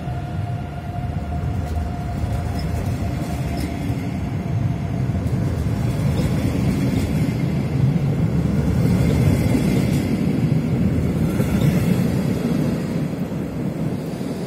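Red double-deck regional train rolling along the platform: a steady low rumble of wheels on rail that swells in the middle and eases near the end. A thin whine at the start fades within the first few seconds.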